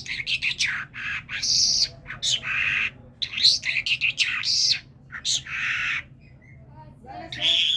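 Pet talking thrush giving a rapid run of short, harsh squawks and chirps, broken by brief pauses.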